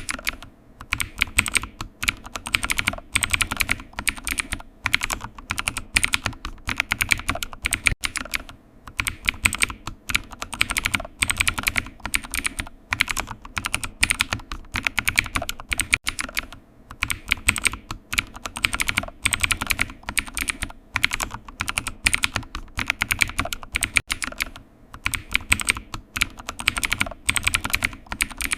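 Computer keyboard typing: rapid key clicks in runs of a second or two, broken by brief pauses.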